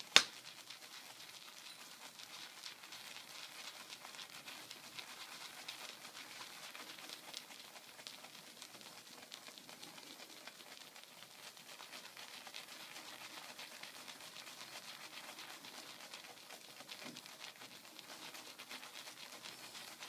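A high mountain white badger shaving brush swirled through Martin de Candre Fougère soap lather in the palm, making a soft, steady crackling squish. A sharp click sounds just after the start.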